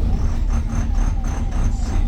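Low rumble of a VDL Pulsar bus, with a rhythmic high-pitched squeaking rattle about four times a second: the unexplained strange noise.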